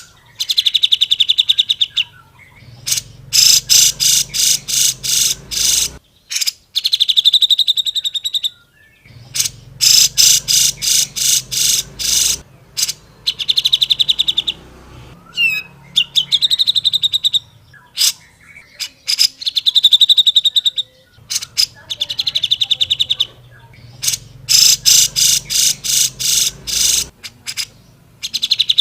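Cucak jenggot (grey-cheeked bulbul) singing loudly in repeated rapid trills of quick, evenly spaced notes, each burst about one to two seconds long with short pauses between.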